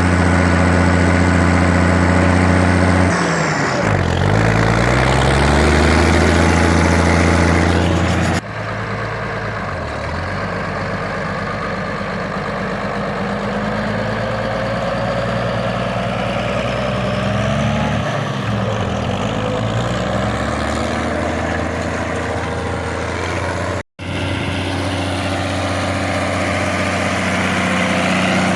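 ZTS 16245 tractor's six-cylinder diesel engine running steadily. Its speed drops and recovers twice, as when the engine is lugged under load, and the sound changes abruptly twice where clips are joined.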